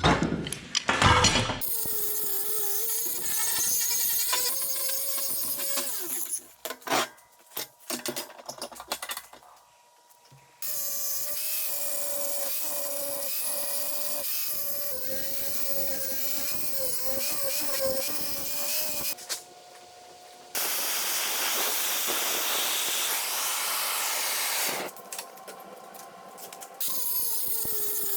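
6-inch angle grinder grinding the steel of a railway-rail anvil. It runs in several stretches that start and stop abruptly, and its motor pitch wavers as it bears on the work.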